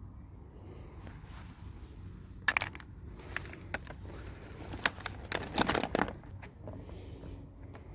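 Small plastic toy pieces and packaging being handled: a run of sharp clicks and clacks between about two and a half and six seconds in, ending in a short crinkling rustle, over a low steady hum.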